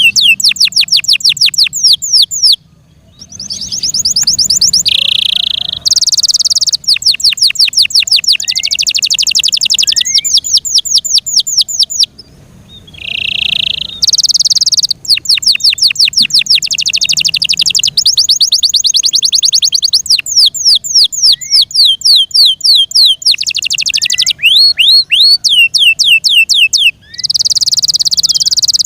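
F1 Yorkshire canary singing: long, loud runs of rapidly repeated sweeping notes and trills, broken by two short pauses.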